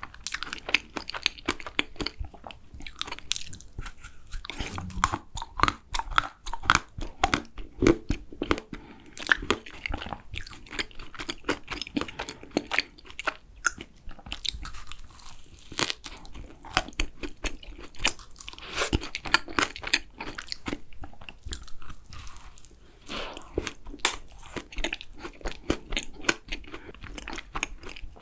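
Close-miked chewing and crunching of macarons: crisp shells crackling between the teeth, with soft, wet chewing in between, irregular and continuous.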